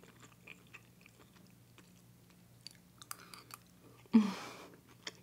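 A woman chewing a mouthful of ground-beef picadillo, with faint mouth sounds and small clicks. About four seconds in comes one short, loud breathy vocal sound that fades quickly.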